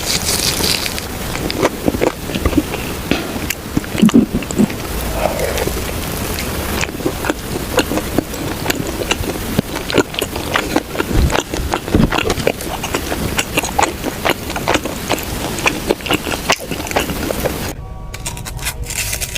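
Close-up crunching and chewing of a crispy, sugar-coated Korean corn dog: dense, irregular crackles and crunches from the fried batter crust.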